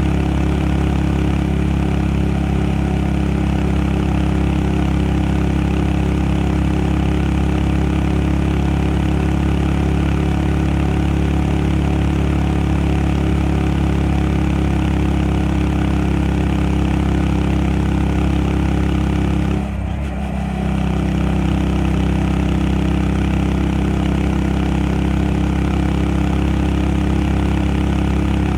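Honda Monkey 125's air-cooled single-cylinder four-stroke engine running steadily. About twenty seconds in, the sound drops briefly, then settles again at a slightly different pitch.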